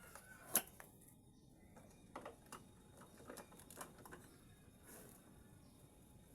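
Scattered faint clicks and light knocks, the sharpest about half a second in, from a rope being worked and pulled while lashing a refrigerator onto a motorcycle.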